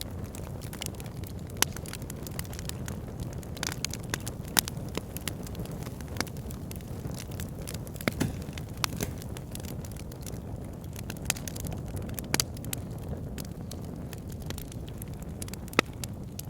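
Backyard fire pit crackling: frequent sharp pops and snaps, a few louder than the rest, over a steady low rumble.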